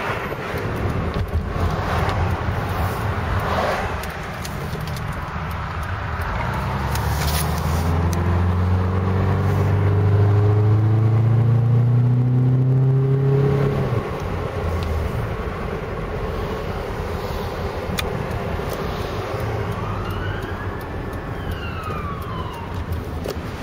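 Car engine heard from inside the cabin, accelerating with its pitch climbing steadily for several seconds, then dropping off suddenly, over steady road noise. Near the end a distant ambulance siren wails up and down once.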